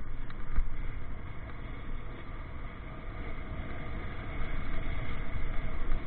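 Motorcycle riding noise: the engine running and road noise as the bike moves through city traffic, a steady rumbling haze with no distinct events.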